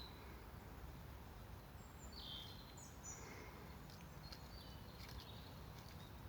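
Faint bird chirps over quiet outdoor background noise: short high calls, a cluster about two to three seconds in and another around five seconds.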